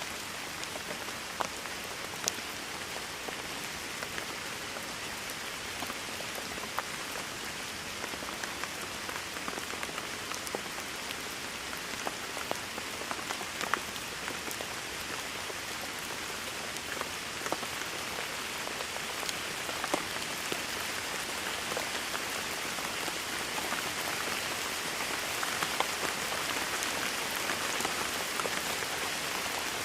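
Steady rain falling on a hard surface, an even hiss with scattered individual drops ticking and splashing, growing a little heavier near the end.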